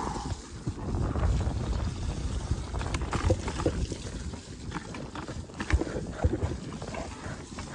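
Wind buffeting the microphone of a moving rider: a steady low rumble and rush, with scattered short knocks.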